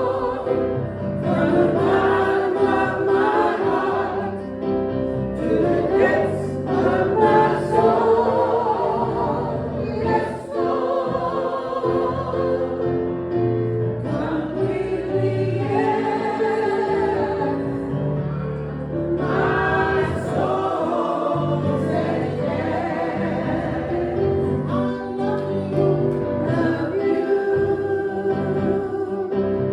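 Church choir and congregation singing a hymn together, holding long sung notes over lower sustained accompaniment.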